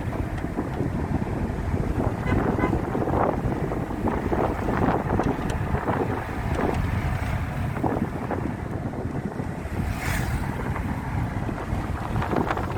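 Wind buffeting the microphone over a steady low rumble from a moving vehicle, with scattered short knocks and rattles and one sharper click or clatter about ten seconds in.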